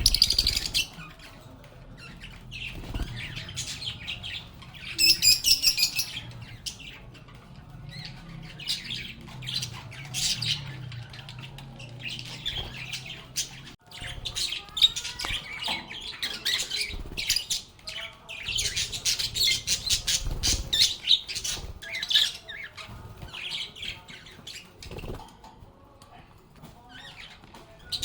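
A flock of lovebirds chirping and squawking continuously in rapid, overlapping high calls, with louder flurries about five seconds in and again around twenty seconds in.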